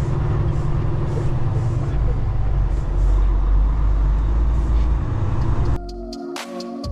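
Semi truck's diesel engine running with a deep, steady sound, which cuts off abruptly near the end into electronic background music.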